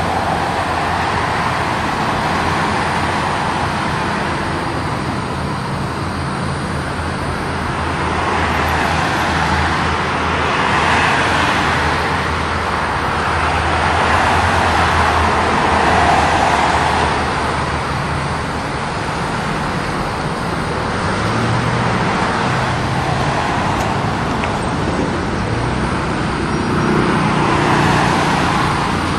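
A train rolling past: a steady, loud rush of wheels on rails that swells and eases every few seconds, over a low hum.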